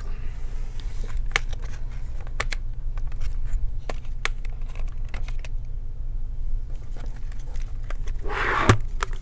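Scattered small clicks and taps of a screwdriver and plastic parts being handled inside an opened laptop, with a short scrape near the end, over a steady low hum.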